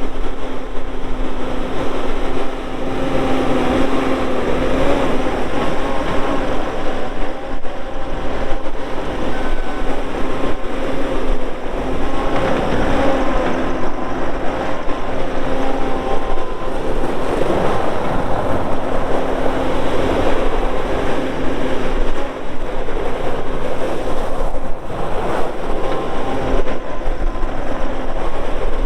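Bobcat S770 skid steer's diesel engine running steadily with a whine, its pitch shifting a little now and then as the machine is worked.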